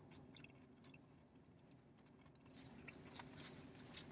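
Faint chewing of a mouthful of food over a low steady hum, with light crackly rustling and clicks in the last second or so as the food is handled.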